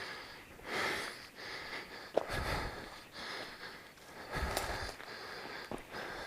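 A man breathing heavily close to the microphone, a noisy breath every second or so. There is a sharp click a little after two seconds in, and low thuds about two and four and a half seconds in.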